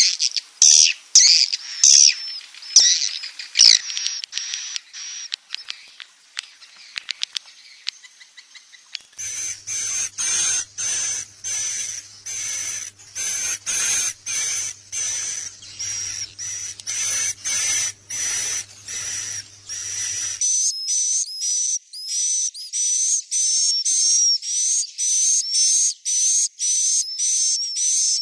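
Recorded swiftlet calls from a roosting lure track: rapid, high-pitched chirping and twittering, pulsing over and over. The recording changes abruptly about a third of the way in and again past the middle.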